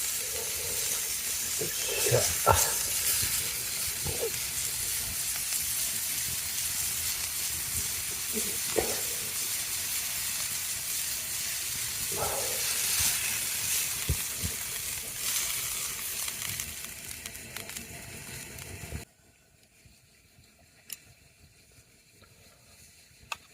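Food sizzling and frying in a hot pan: a steady hiss with a few light clinks. The sizzle eases off and then cuts off abruptly about nineteen seconds in, leaving a quiet background with a couple of faint clicks.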